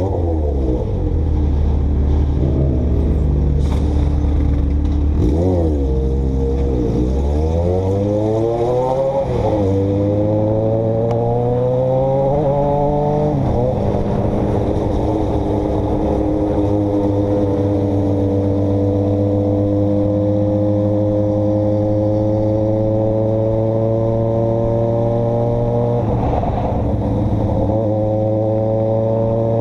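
A vehicle engine heard from on board while driving. The revs rise and fall several times, with a sharp drop at each gear change in the first half, then climb slowly and steadily under light, even acceleration.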